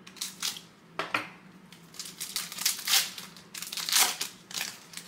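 Foil wrapper of a trading card pack crinkling and tearing as it is opened, in a run of short, crisp rustles, loudest about three and four seconds in.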